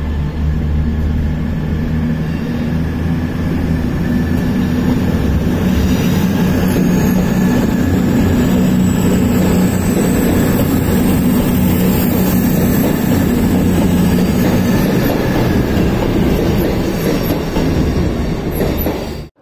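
CrossCountry Class 221 Voyager diesel-electric multiple unit moving past close by, its underfloor diesel engines running steadily, with wheels clicking over the track through the middle of the pass. The sound cuts off abruptly near the end.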